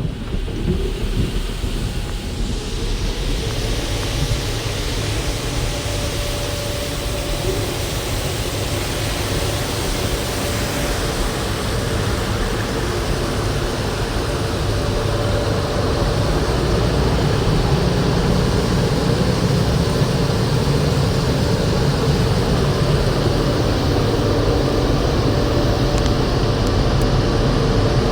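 Automatic car wash equipment running: a steady spraying hiss with a low rumble, building up about two seconds in and growing louder in the second half.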